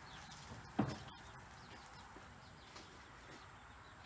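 Chickens clucking faintly, with one short, louder cluck under a second in and a few soft, high, falling chirps later.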